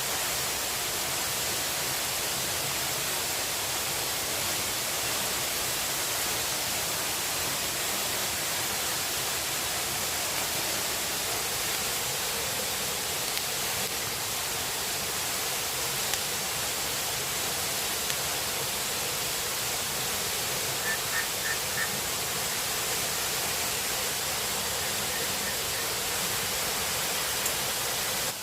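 Steady rushing of water without a break. About two-thirds of the way through come four short, high chirps in quick succession.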